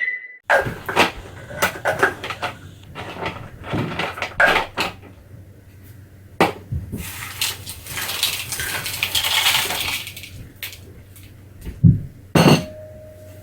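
Ice and kitchenware clattering while the toy Blizzard maker is loaded: many clinks and knocks, with a few seconds of steady hiss around the middle and two heavier knocks near the end.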